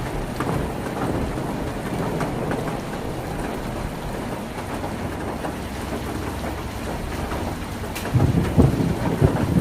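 Heavy rain falling steadily on a tin roof, a dense patter, with a few louder low thuds near the end.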